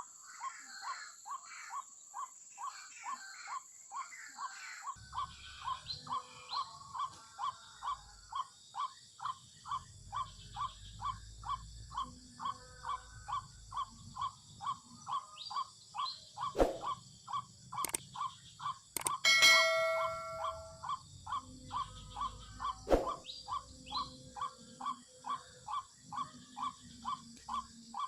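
White-breasted waterhen calls: short notes repeated steadily about twice a second. There are a few sharp clicks, and a louder, more tonal call a little after the middle.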